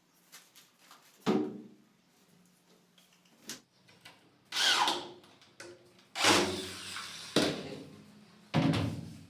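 Power drill run in several short bursts, about five in all, each starting suddenly and lasting a second or less.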